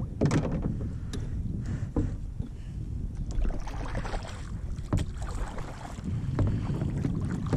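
Wind buffeting the microphone over water moving against a kayak, with a few short knocks on the hull.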